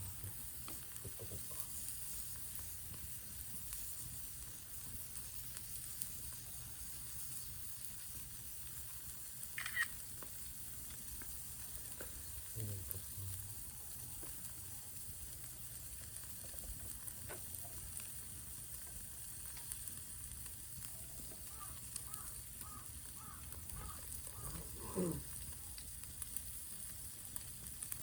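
Meat sizzling on an iron griddle plate over a wood fire: a steady hiss, with a few brief faint sounds on top, the sharpest about ten seconds in.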